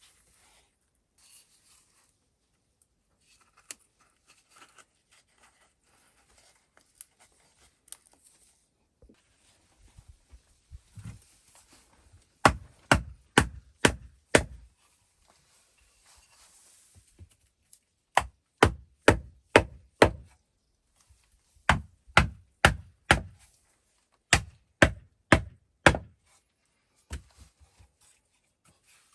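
Quiet handling and small knocks, then four runs of five or six sharp blows from a tool striking wood, about three a second, with short pauses between the runs.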